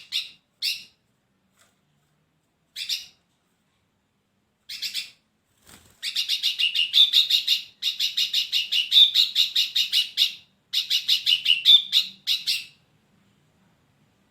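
Hairy-backed bulbul (brinji rambut tunggir) calling in quick chattering phrases of rapid repeated high notes. Short bursts come first, then a long run of chatter in the middle, stopping about two seconds before the end.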